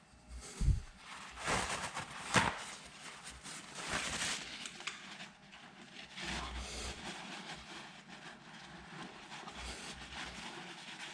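Workshop handling noise: a dull thump, then a sharp click of metal tools or parts being picked up and set down, followed by softer shuffling and rustling as things are moved about.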